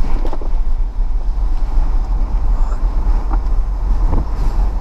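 Blizzard wind gusting hard and buffeting the microphone: a loud, steady low rumble.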